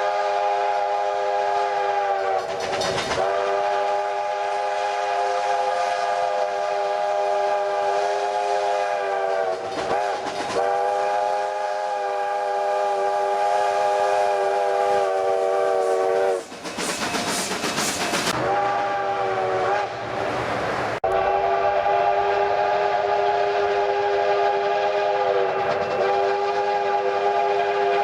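Steam locomotive chime whistle blowing long, sustained chords, with a few brief dips. Around two-thirds of the way through, a loud hiss briefly covers it, then the whistle sounds again.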